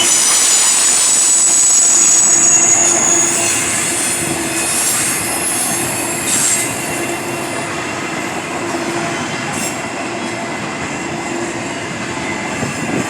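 Train rolling through a track switch, its wheels squealing high for the first few seconds, then a steady rumble of cars rolling on.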